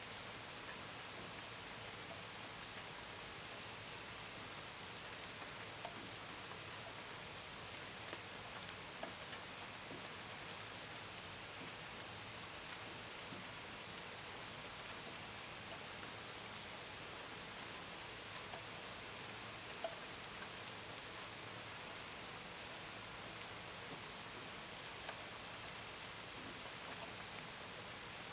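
Steady gentle rain, with scattered drops pattering on a window and gutters as small ticks. Crickets chirp in a continuous high-pitched chorus over it.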